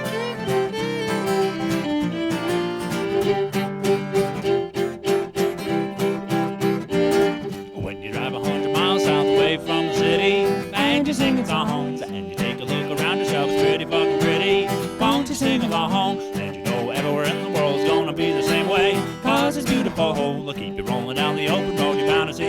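Acoustic string band playing an instrumental break: steadily strummed acoustic guitar under a melody carried in long held notes, in a country/bluegrass style.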